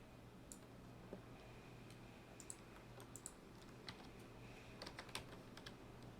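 Faint, irregular clicks of a computer keyboard and mouse being used, over a steady low hum.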